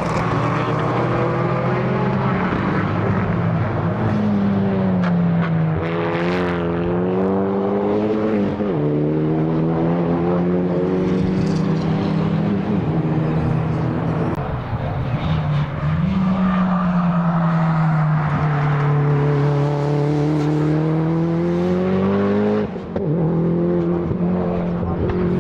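A time-attack race car's engine running hard on a circuit, its pitch climbing and falling with throttle and gear changes. From about the middle it drops as the car slows, then rises steadily as it accelerates again, with a brief break in the sound near the end.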